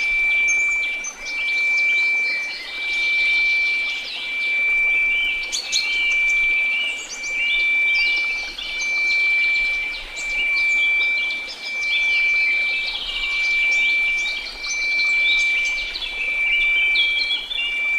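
A steady pure sine tone near 2334 Hz, its loudness swelling and fading about every second and a half, layered over many birds chirping and a faint hiss of white noise.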